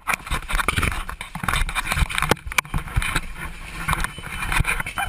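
Clattering, knocking and scraping inside a small passenger plane's cabin over a rough rushing noise, as the plane lies ditched in the ocean. The knocks come thick and irregular throughout.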